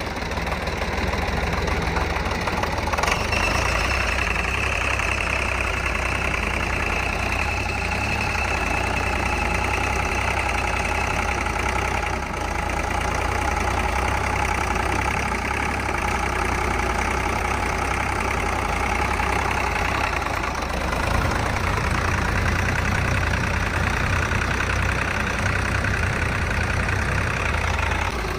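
Tractor diesel engine running steadily with a knocking clatter. About two-thirds of the way through, its low rumble gets heavier.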